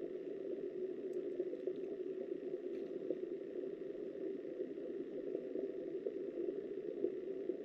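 Steady, muffled rushing of river water heard through an underwater camera's waterproof housing, with a few faint ticks in the first few seconds.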